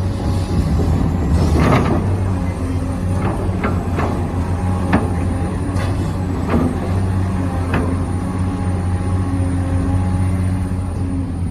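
Remote-control model Volvo excavator running, its motor and drive giving a steady hum with a whine on top, punctuated by irregular sharp knocks and clicks about once a second.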